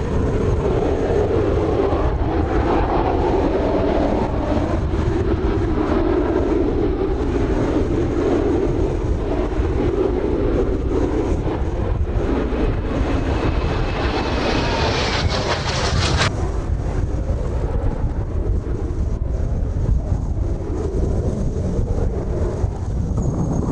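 Kawasaki T-4 jet trainers' turbofan engines flying overhead. The jet noise builds into a close pass with a falling whine and a rising hiss, which ends abruptly about sixteen seconds in. Strong wind buffets the microphone throughout.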